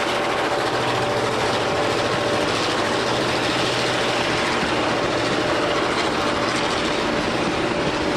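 Diesel locomotive running steadily, an even engine drone with a few held tones over a broad rumble.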